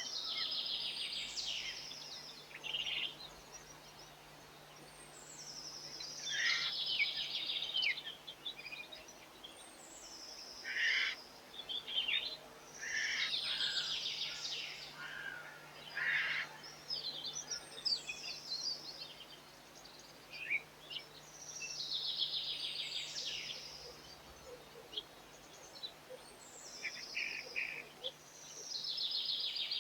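A songbird singing a short, high, falling trill about two seconds long, repeated every four to six seconds.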